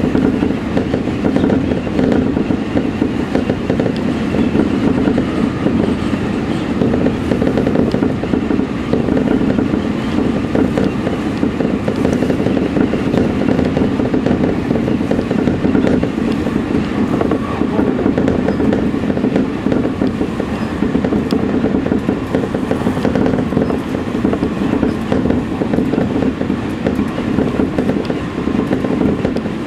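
Electric commuter train running at steady speed, heard from inside the lead car: continuous running noise of wheels on rail and the moving train.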